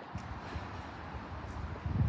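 Train running on the tracks: a low rumble with irregular low thumps, building louder toward the end.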